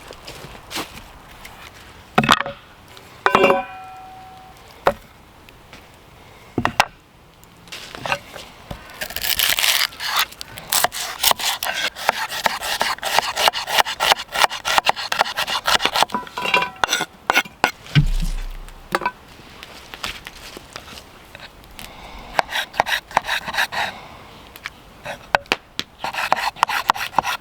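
Irregular scraping and rubbing with many scattered knocks and clicks, in dense stretches midway and near the end.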